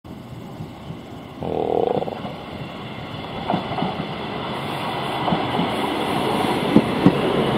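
Sangi Railway electric train pulling into the station: its running noise builds as it comes close, with a brief tone about a second and a half in and sharp wheel clacks over the rail joints near the end.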